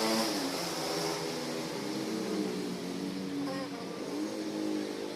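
Honda City i-DSI running, a pitched hum from the engine and drivetrain whose pitch slides down and back up as the revs change.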